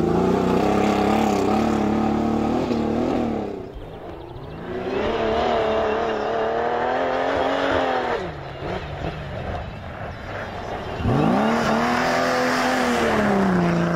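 Engine of a Jeep 4x4 rally car at high revs on a dirt stage, heard in three passes. The first run is held high and falls away about four seconds in; the revs then climb again, hold and drop off around eight seconds; they rise once more about eleven seconds in and stay high.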